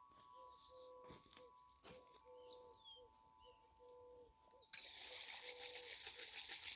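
Faint birdsong: small birds chirping, over a low whistled note repeated every half second or so. About five seconds in, a steady hiss of running water starts.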